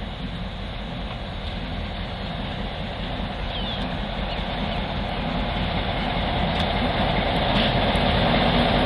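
EMD GR12W diesel locomotive hauling a train of loaded mineral hopper cars, its engine growing steadily louder as the train approaches.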